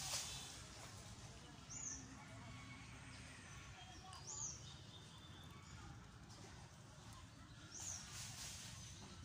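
Faint outdoor ambience with a bird giving a short, high chirp three times, about every three seconds.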